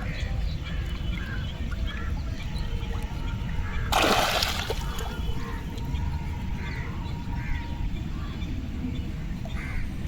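Waterfowl calling on and off around a pond, with one loud splash in the water about four seconds in.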